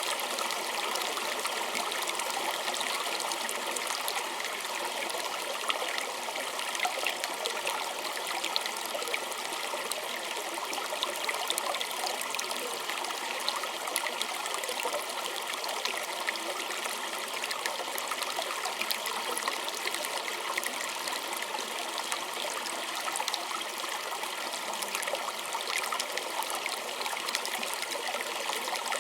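A small stream trickling and babbling over stones, a steady flow of splashes and fine droplet ticks.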